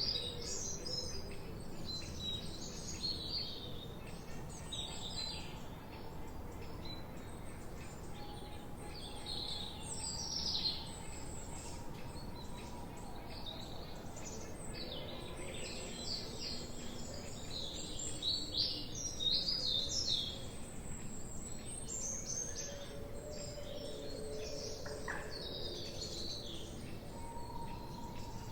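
Several small birds chirping and singing in a forest chorus, with many short, high, quick-falling notes overlapping throughout and thickest around the middle. A steady low background noise runs underneath.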